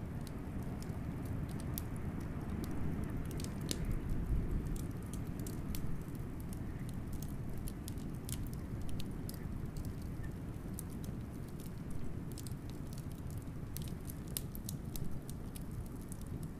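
Wood fire crackling with frequent sharp pops and snaps over a steady low rumble of blizzard wind.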